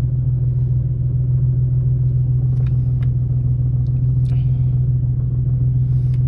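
Nissan 370Z's 3.7-litre V6 running as a steady low drone, with a few faint clicks. These are the kind of unexplained clunking rattle the owner is chasing and suspects is clutch-related.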